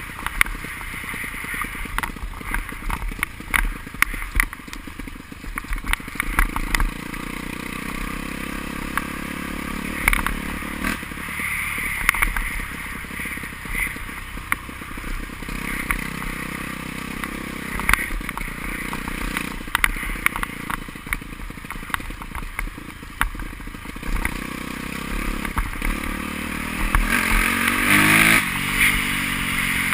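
Motocross bike engines running and revving, rising and falling in pitch, with one engine climbing sharply in pitch near the end. Short sharp clicks and knocks are scattered throughout.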